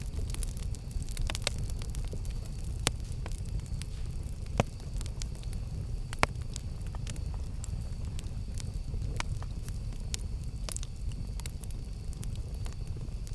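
Wood campfire burning with a steady low rush of flames and irregular sharp crackles and pops, a few louder snaps standing out.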